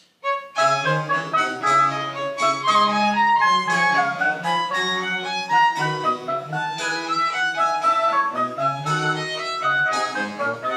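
A Baroque chamber ensemble plays a lively French Baroque piece: a violin melody in quick notes over a low bass line. The music starts abruptly about a third of a second in.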